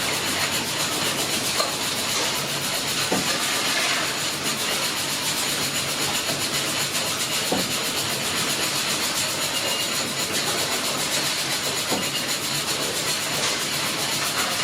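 Fowler steam ploughing engine running with a steady hiss of steam and a few faint light knocks scattered through.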